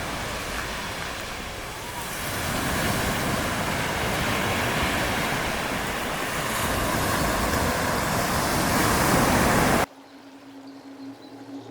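A steady rushing noise, swelling slightly about two seconds in, that cuts off suddenly near the end.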